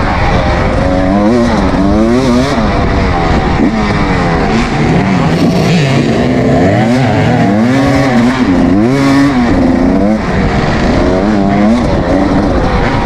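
Dirt bike engine being ridden hard, its pitch rising and falling over and over as the throttle opens and closes and it shifts gears.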